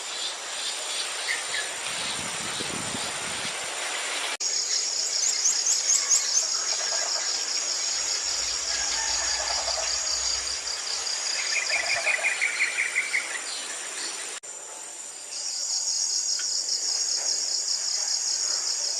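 Steady high-pitched insect chorus with wild birds calling over it in short chirps and trills, including a rapid trill about two thirds through. The background changes abruptly twice.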